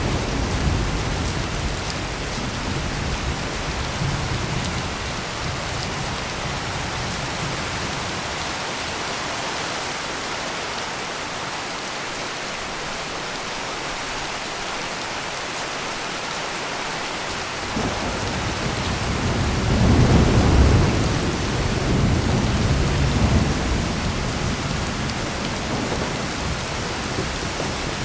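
Heavy rain pouring steadily. Low thunder rumbles at the start and dies away, then a new roll of thunder breaks in about two-thirds of the way through, is loudest a couple of seconds later, and rolls on for several seconds as it tapers off.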